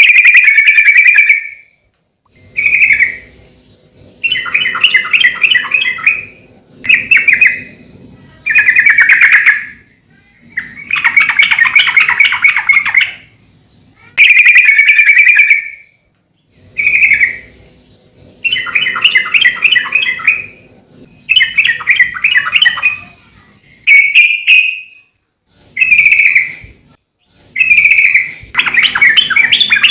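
Yellow-vented bulbul (trucukan) singing loudly: a string of short, bubbly, chattering phrases, one every two seconds or so, with brief pauses between.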